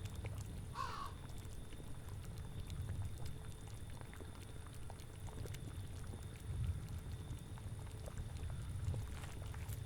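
Cauldron boiling: a steady low bubbling rumble with many small pops. About a second in, a brief animal cry sounds once.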